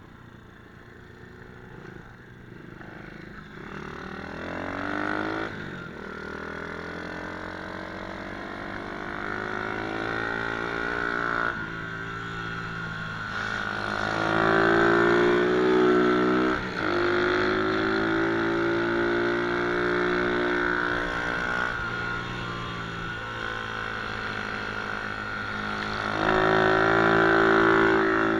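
MRF 120 cc pit bike's small single-cylinder engine revving through the gears, its pitch climbing and then dropping at each shift. It starts faint, grows louder and is loudest for a few seconds around the middle and again near the end.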